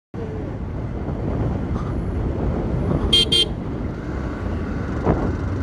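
Steady wind and engine noise of a moving motorcycle, with two short horn toots a little past the middle.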